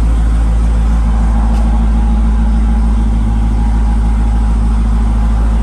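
Jeep Grand Cherokee Trackhawk's supercharged 6.2-litre V8 idling, a loud, steady low drone that does not change.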